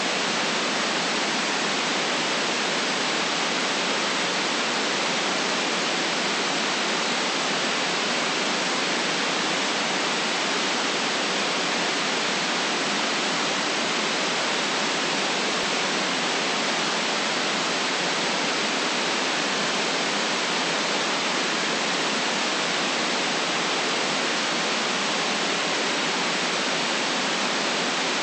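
Steady synthetic white noise, an even hiss that does not change, filtered to cut the deep lows and the highest highs.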